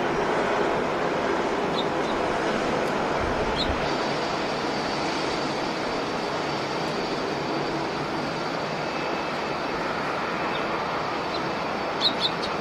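Jet airliner engines heard at a distance, a steady roar, with a thin high whine coming in about four seconds in. A few short high chirps sound near the end.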